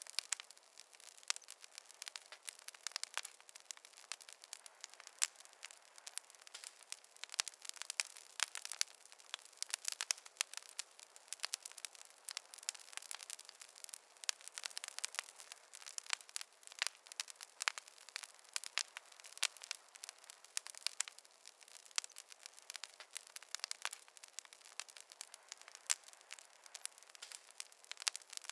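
Wood campfire crackling: a steady scatter of small sharp pops and snaps at irregular intervals over a faint hiss.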